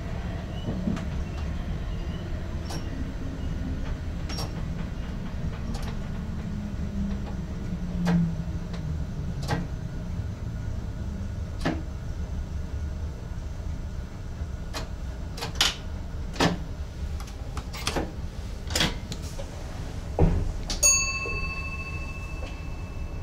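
Inside the cab of an NS ICM electric intercity train on the move: a steady low running rumble, with a low hum that slowly falls in pitch over the first several seconds. Sharp clicks and knocks come irregularly, thickest a few seconds before the end. Near the end a steady pitched tone with overtones comes on and holds.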